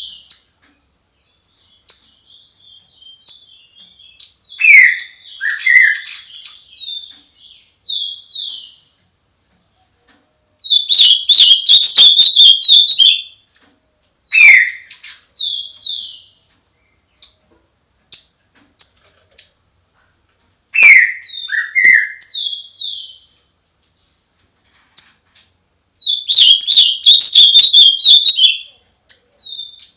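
Songbird singing at dawn in loud phrases of chirps and slurred whistled notes, each phrase lasting two to four seconds with pauses of a second or more between them.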